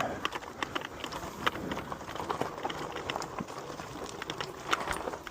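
Lectric e-bike riding over rough ground, with a dense run of irregular clicks and rattles over a steady rolling noise.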